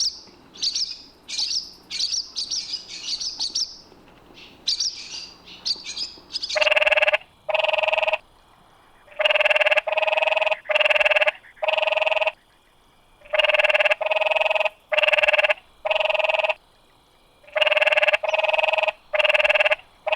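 Small birds chirping for about six seconds, then a different animal takes over with a long run of loud, identical pitched calls, each under a second long, in groups of two to four with short pauses between.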